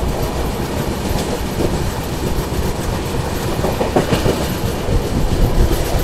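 Brindhavan Express passenger coach running on the line, a steady rumble of wheels on the rails with a few clacks over rail joints.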